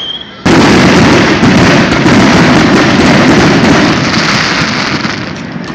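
Aerial fireworks shell: a whistle ends, then about half a second in the shell bursts with a sudden loud bang. A dense crackle follows for about four seconds and fades near the end.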